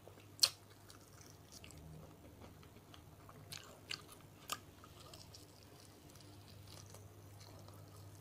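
Faint chewing and tearing of grilled chicken eaten by hand, with a few sharp crunches. The loudest comes about half a second in, and a few more follow between three and a half and four and a half seconds in.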